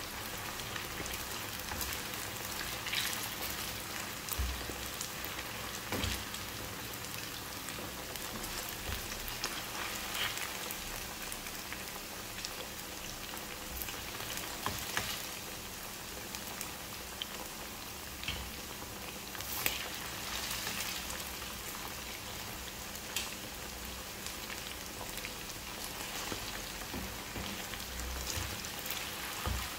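Chicken pieces frying in hot oil in a nonstick pan: a steady sizzle with scattered crackles and pops while a slotted spatula stirs them.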